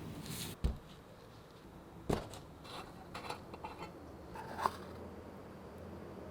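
Metal parts or tools being handled at a workbench: three sharp knocks about a second and a half to two and a half seconds apart, with light clicks and scraping in between.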